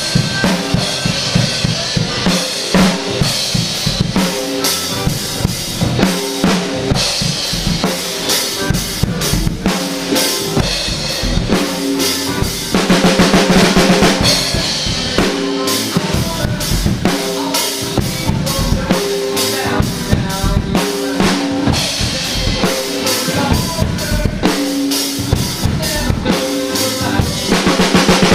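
DW Collectors Series drum kit played in a steady groove of kick, snare and cymbals, with a recorded song's bass and other instruments sounding beneath. The playing swells into a louder, fuller passage about halfway through.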